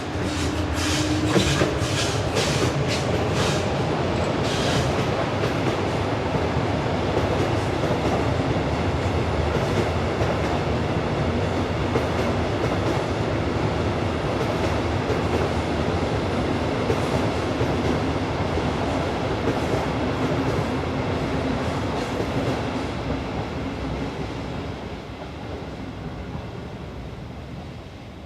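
Train passing close by: a run of wheel clacks over rail joints in the first few seconds, then a steady rumble that fades away near the end.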